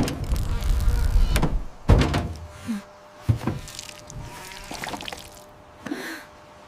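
A run of knocks and thuds over a low rumble. The loudest thud comes about two seconds in, followed by fainter knocks and a short squeak.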